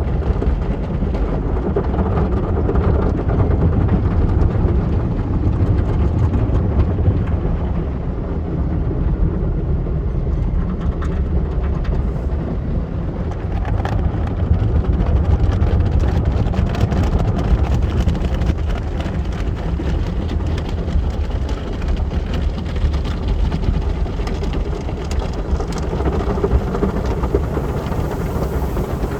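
Automatic car wash running: a steady, loud low rumble of machinery and spraying water.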